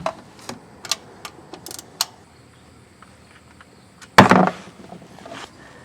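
Metal hand tools clicking and knocking under a car during an oil change: a string of light clicks in the first two seconds, then one louder clank about four seconds in.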